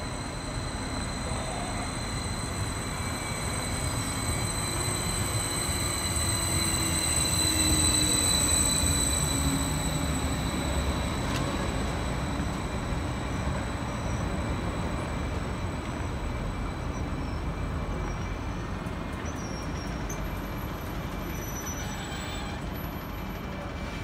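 Electric multiple-unit train running in alongside the platform and slowing to a stop: a steady rumble with a high whine whose pitch falls slowly as it brakes. It is loudest about eight seconds in, then settles as the train stands.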